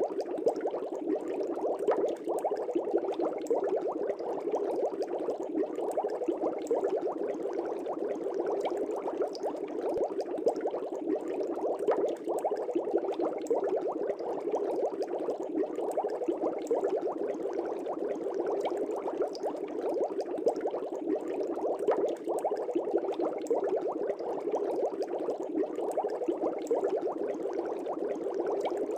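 Air bubbles streaming continuously through fish-tank water: a dense, steady bubbling made of many tiny pops, even in level throughout.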